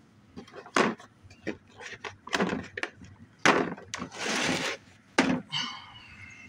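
Tools and metal parts being handled and rummaged through: a series of sharp knocks and clunks with rustling and scraping between them.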